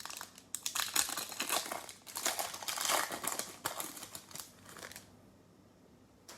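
Crinkling and rustling of trading-card packaging and cards being handled, in irregular bursts for about five seconds, then stopping.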